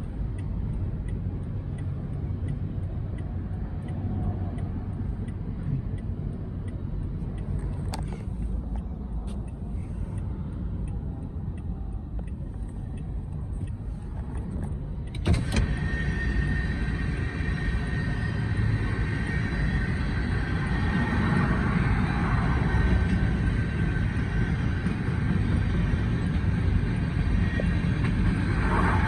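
Steady low rumble of passing heavy traffic. About halfway through there is a sharp click, then the rumble grows louder and steady high-pitched tones run over it.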